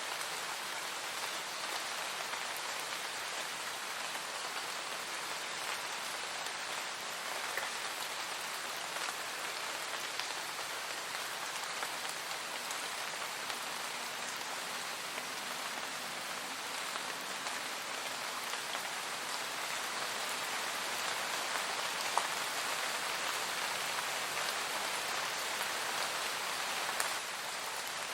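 Steady rainfall, an even hiss of rain with scattered individual drops ticking, a couple of them a little louder near the end.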